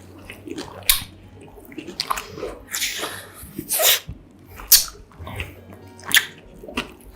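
Close-miked eating sounds of a mozzarella corn dog: bites and chewing, with irregular sharp mouth bursts about a second apart.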